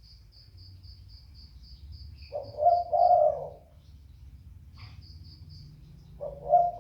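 A puter (Barbary or ringneck dove) cooing: two coo phrases, one about two and a half seconds in and another near the end. A fast run of faint high ticks sounds at the start and again about five seconds in.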